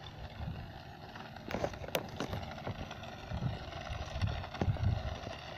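Remote-control toy car driving over rough ground: a steady motor whir with irregular knocks and rattles as it bumps along.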